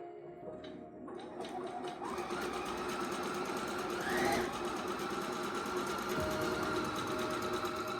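Bernina Virtuosa 150 sewing machine running, picking up speed over the first couple of seconds and then running at a steady speed, over quiet background music.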